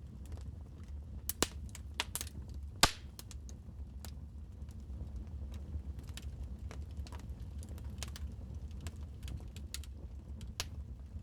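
Wood fire crackling in a fireplace: scattered small snaps and pops over a low steady rumble, with a few louder pops between about one and three seconds in.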